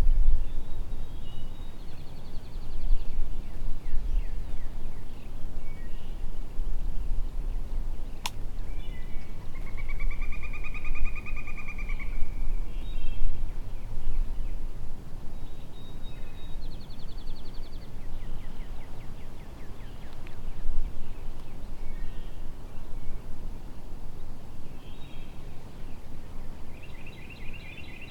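Woodland songbirds singing trilled phrases every few seconds over a steady low rumble of outdoor background noise, the loudest trill coming about ten seconds in.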